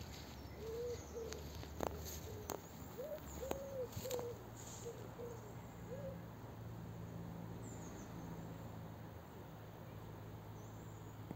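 A bird calling in a run of short, low hooting coos, about ten notes over the first six seconds, one of them longer than the rest. Faint high chirps from small birds come later.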